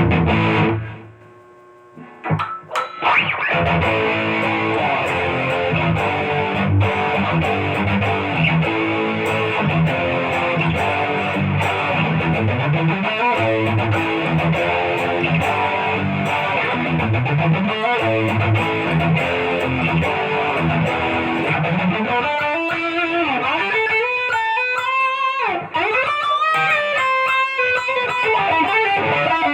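Electric guitar played through distortion and effects for a sound test. A chord rings at the start and stops, then after a short pause continuous riffs and lead lines with string bends and slides.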